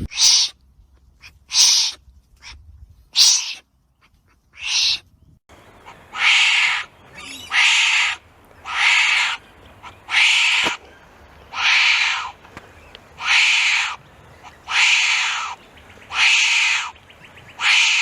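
Wombat calling: four short, sharp calls, then a steady series of about nine longer, hoarse calls, each around half a second long and spaced roughly a second and a half apart.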